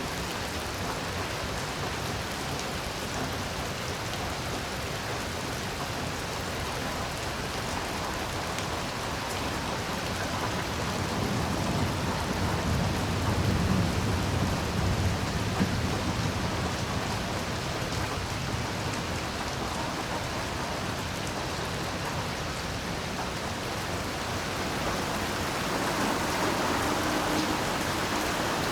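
Heavy rain falling steadily, with a low rumble of thunder swelling and fading about halfway through.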